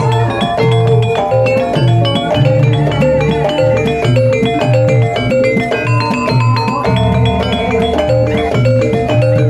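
Javanese gamelan music for an ebeg horse dance: metal-keyed mallet instruments playing a busy stepped melody over a steady low beat about twice a second.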